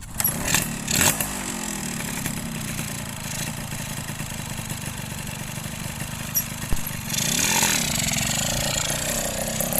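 Two-stroke Yamaha F1ZR engine fitted in a Yamaha V80 frame, running. The revs rise and fall briefly about a second in, and again for longer a little past seven seconds.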